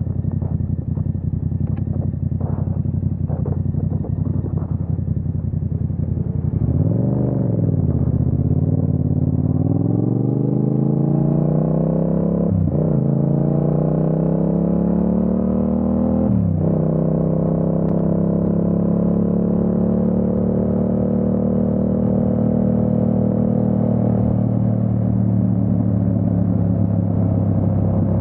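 Yamaha MT-07's 689 cc parallel-twin engine running at low revs, then a quick rev about seven seconds in, followed by hard acceleration through two upshifts, the revs dropping sharply at each shift. It then settles into a steady cruise.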